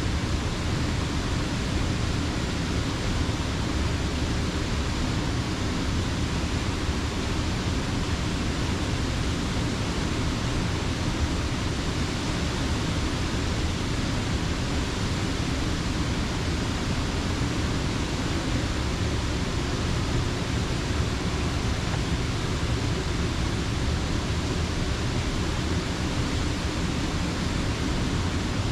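Steady rush of creek water spilling over a mill dam.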